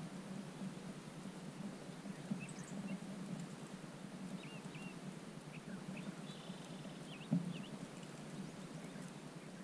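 Faint, scattered songbird chirps over a low, steady hum, with one soft thump a little past seven seconds in.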